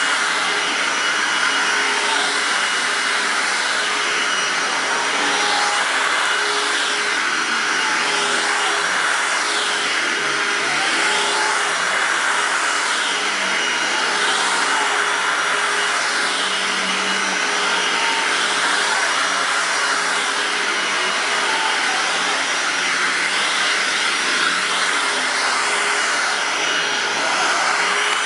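Hoover WindTunnel Self-Propelled Anniversary Edition upright vacuum (U6485900, 12-amp motor) running steadily on carpet with its brush roll engaged. Its whine and rush of air rise and fall about every two seconds as it is pushed back and forth.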